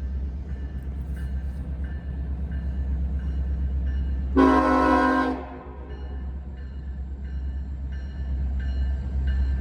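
Diesel locomotives of an approaching Norfolk Southern freight train rumbling low and growing louder, and about four seconds in the locomotive's air horn sounds one short blast of about a second, a chord of several notes.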